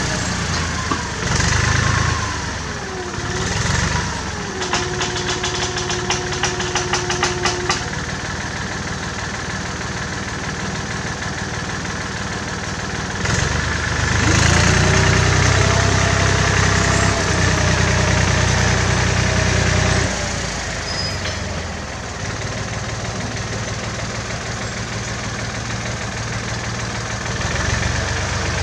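1967 David Brown tractor engine running while working, its note rising and falling, louder for several seconds around the middle. A whining tone glides up and down over the engine, and a quick run of clicks comes a few seconds in.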